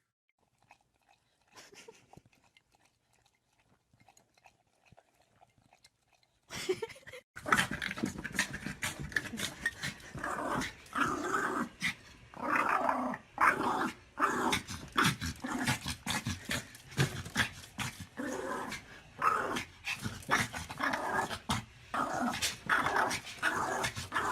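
A dog growling and grumbling in a long string of short, pitched calls that rise and fall one after another, starting after a few quiet seconds.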